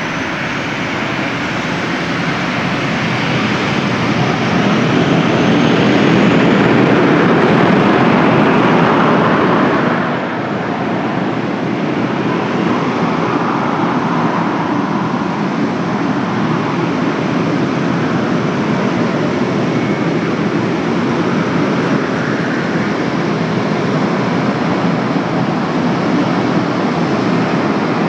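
Airbus A400M's four turboprop engines running loud, building to a peak about six to nine seconds in. The sound drops suddenly near ten seconds, then holds steady.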